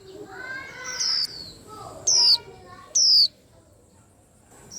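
White-eyes calling: three loud, short, sharp notes that slide down in pitch, about a second apart, over softer chattering in the first second and a half.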